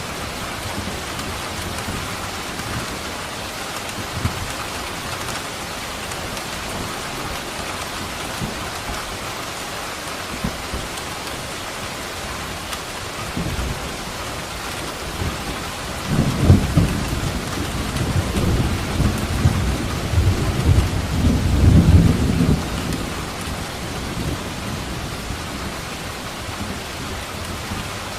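Steady rain falling, with a roll of thunder rumbling low for several seconds past the middle, loudest at its start and near its end.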